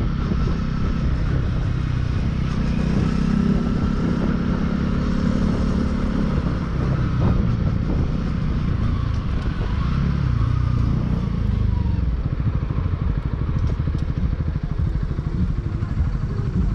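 Motorcycle engine running steadily while riding, its pitch shifting up and down with the throttle.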